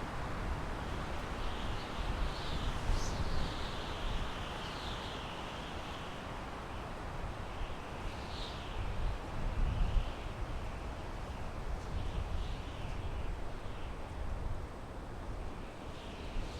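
Wind blowing through pine trees: a steady rushing hiss with low gusts that swell and fade, strongest around the middle. Short high chirps sound here and there throughout.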